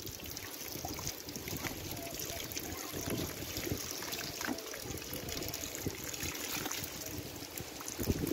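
Water trickling and dribbling, with many small splashes and ticks throughout.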